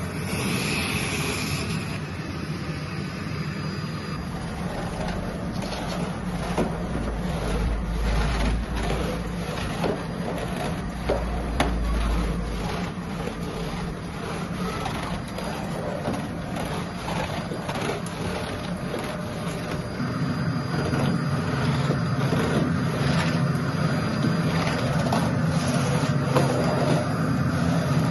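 A steady machine-like drone, with many scattered knocks and clatters over it. A deep rumble comes in for several seconds in the first half, and the drone grows fuller about twenty seconds in.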